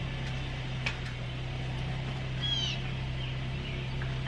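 Car engine idling with a steady low hum. There are a few sharp clicks, and one short high chirp that falls in pitch about two and a half seconds in.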